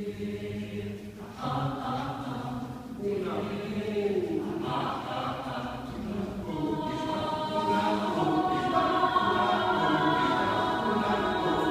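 Choir singing a cappella in several parts, holding chords. The sound grows fuller and louder about halfway through.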